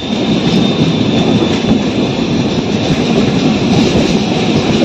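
Passenger train running at speed, heard from inside the coach through an open window: a loud, steady rumble and rush of wheels on the rails.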